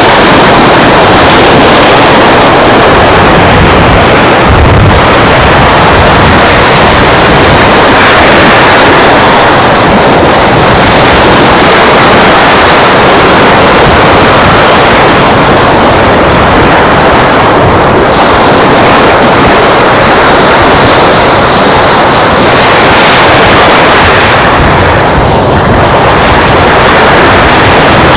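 Loud, steady rush of wind on the microphone mixed with surf washing on the beach, with a low thump about five seconds in.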